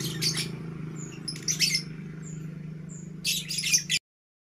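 Contest songbird singing in three short bursts of rapid chirps, with thin high whistles between them, over a steady low hum. The sound cuts off suddenly near the end.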